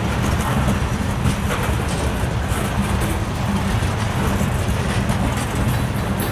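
Freight train passing: a steady, loud rumble of locomotives and rolling wheels on rail, with no change in strength.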